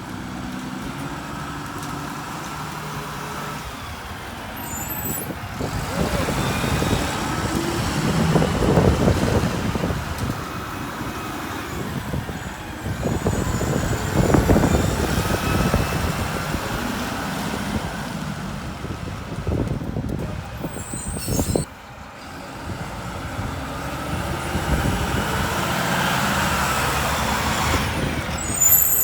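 Diesel engine of a Mack LR rear-loader garbage truck running, its sound swelling and easing several times, as under throttle or load.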